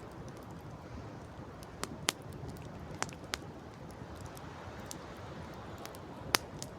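Campfire crackling, with irregular sharp pops over a steady low noise; the loudest pop comes near the end.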